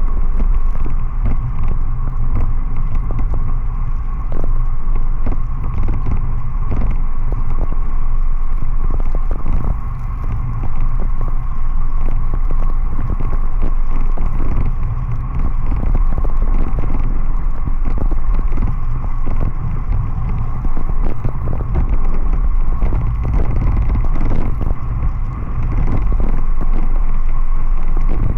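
Steady low wind and road rumble from riding in heavy rain, with a thin constant whine and rapid crackling of rain striking the camera.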